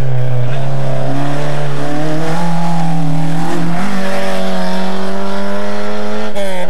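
Rally car engine running hard at high revs as it drives past. The pitch climbs steadily, steps up sharply about four seconds in, and changes abruptly near the end.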